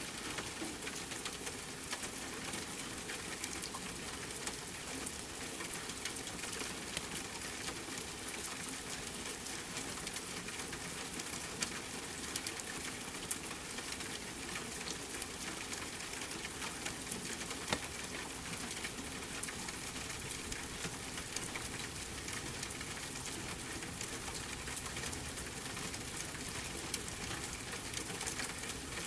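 Steady rain with a crackling fireplace, many small crackles and a few sharper pops, the loudest about 13 seconds in.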